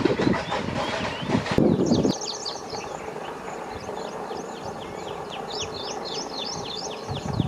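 A passing train's wheels clatter over the rail joints, then stop abruptly about two seconds in. After that, birds chirp, a run of quick falling chirps.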